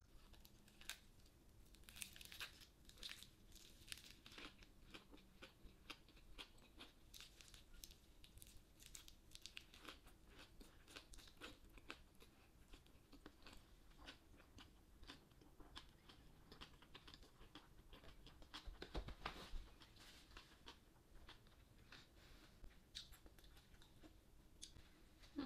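Close-up chewing of a big lettuce wrap with boiled beef tongue: crisp lettuce crunching and a steady run of small wet mouth clicks, quiet overall. A louder stretch of crunching comes about three-quarters of the way through.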